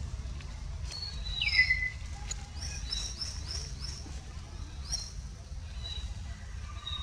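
Birds calling: a downward-sliding whistle about a second and a half in, then a quick run of five short rising chirps, over a steady low rumble.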